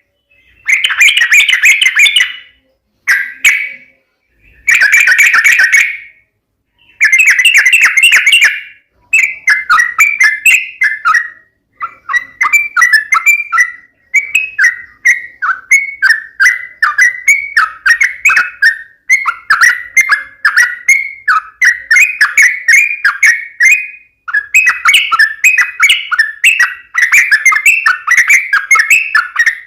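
Yellow-vented bulbul (trucukan) singing in fast chattering bursts of short notes. It starts with several separate dense bursts, then from about nine seconds in sings an almost unbroken run of quick notes.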